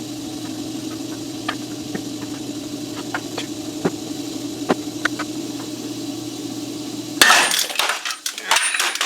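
A steady low hum with scattered light ticks, then about seven seconds in the hum stops and loose steel parts clank and rattle sharply for about two seconds, typical of frame-straightening hardware such as the turnbuckle and wedged pipe being handled.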